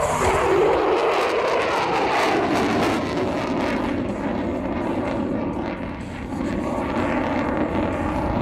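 F-16 Fighting Falcon's single jet engine, loud as the fighter flies a turn past the crowd. A falling pitch in the first second or so, then a steady rushing noise that dips briefly around six seconds in and swells again near the end.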